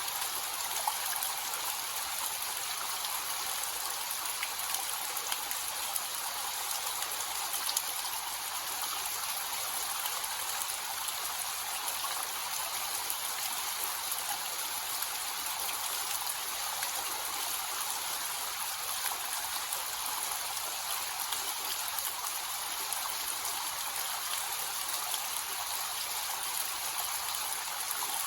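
Small waterfall with a low flow, water splashing and trickling in a steady hiss with faint drips and patters.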